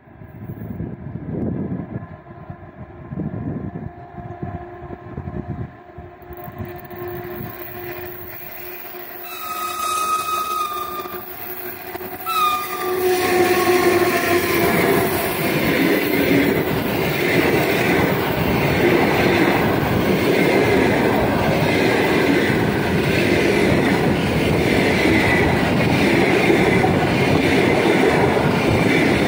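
An EP1 electric locomotive with a long passenger train approaches and passes close by. Its horn sounds about nine seconds in, in two calls, the second dropping in pitch as the locomotive passes. Then the coaches' wheels rumble and clatter loudly over the rail joints in a steady rhythm of about one beat a second.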